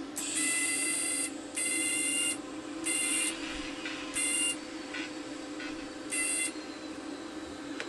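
TIG welder arc buzzing in five short, stop-start bursts, high-pitched, as the arc is struck and lost while trying to tack. A steady low hum runs underneath.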